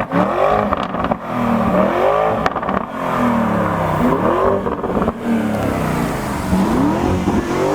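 Car engine revving and accelerating, its pitch rising and falling several times.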